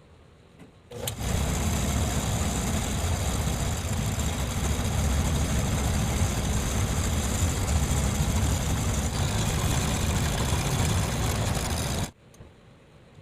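Electric motor of a homemade metal lathe running steadily. It starts about a second in and cuts off suddenly near the end.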